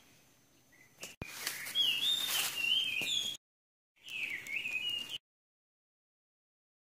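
A bird calling in wavering, warbling phrases, in two stretches that break off suddenly into dead silence.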